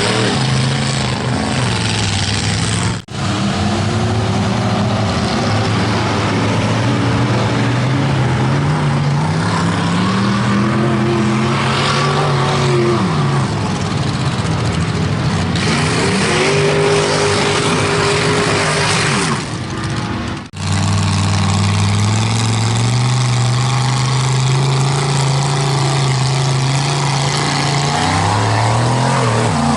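Mega truck's big engine revving hard in deep mud, its pitch climbing and falling again and again as the throttle is worked, over a heavy rushing noise. The sound drops out briefly twice, about three seconds in and about twenty seconds in.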